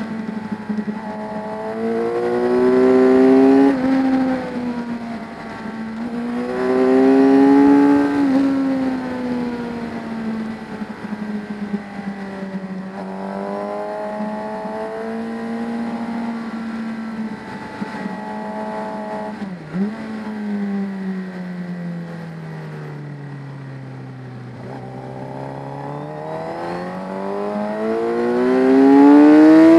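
Racing motorcycle engine heard onboard at full throttle. The revs climb twice early on, each time dropping sharply at an upshift. They hold fairly steady through a corner, then fall away slowly under braking, and climb hard again near the end as it accelerates out.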